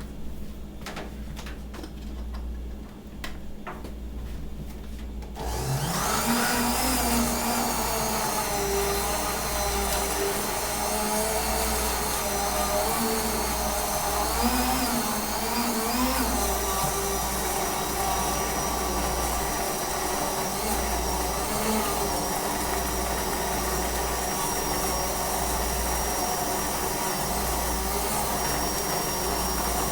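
A Hamilton Beach electric mixer switched on about five seconds in, its motor spinning up quickly and then running loudly while it mixes a milkshake. Its pitch wavers for the first several seconds, then holds steady.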